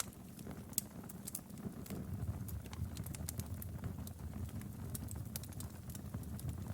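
Wood fire crackling in a fireplace: irregular sharp snaps and pops over a low, steady rumble of the burning fire.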